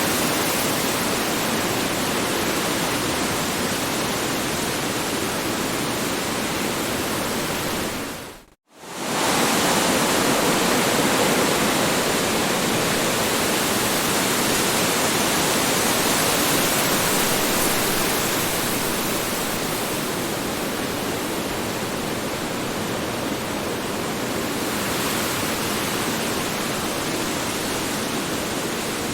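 Strong wind blowing as a steady rushing noise that swells and eases slightly. About eight and a half seconds in it fades out to silence for a moment and comes straight back.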